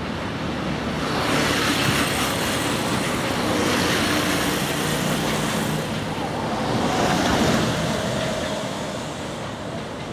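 Container wagons of a freight train rolling away over the station tracks and points, a steady rumble and clatter that swells about a second in and eases off near the end.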